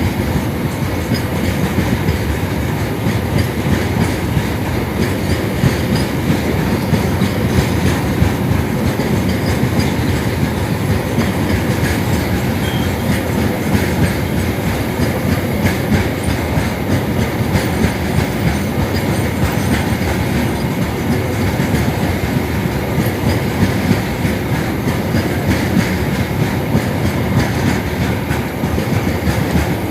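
Indian Railways freight train rolling past, its wagons' wheels making a steady loud rumble and clatter on the rails.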